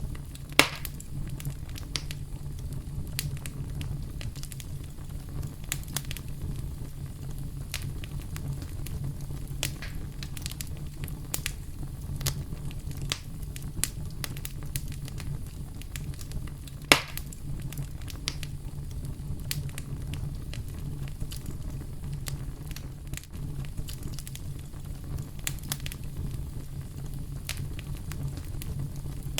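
Campfire crackling with scattered pops, two much louder ones about a second in and just past halfway, over a steady low rumble of brown noise.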